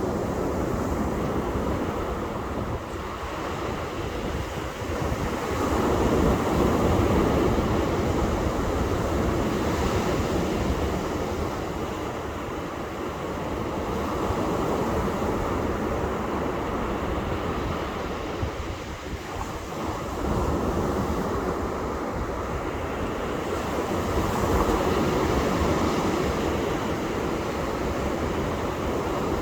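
Ocean surf breaking and washing up on a beach: a continuous rush that swells louder and eases off again every several seconds.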